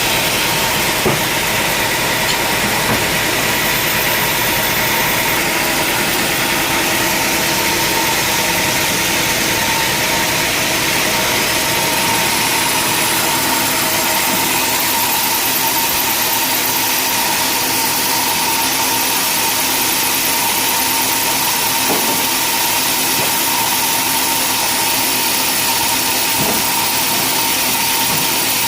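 Sawmill machinery running steadily: a loud, even mechanical noise with a steady whine.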